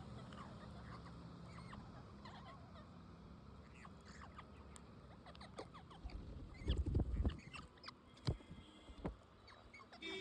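Pet parrots chirping with many short, squeaky calls, among scattered sharp clicks. A louder dull bump comes about seven seconds in.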